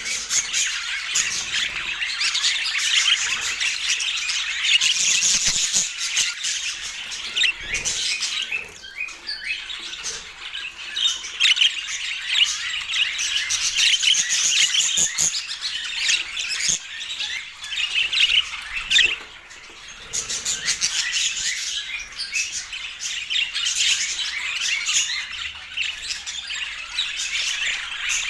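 Budgerigars chattering, chirping and squawking continuously, with a brief lull about two-thirds of the way through.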